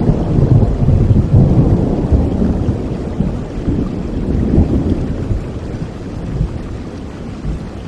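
Thunder rumbling over steady rain, loudest in the first few seconds and fading away toward the end.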